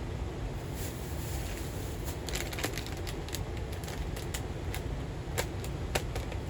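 Steady rain noise with scattered, irregular sharp ticks of drops striking close by.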